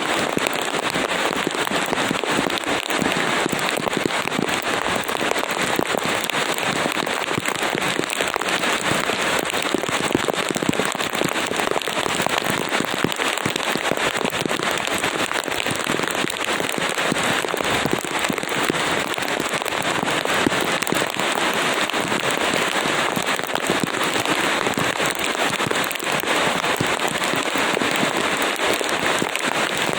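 Steady rain, a dense patter of drops with no let-up.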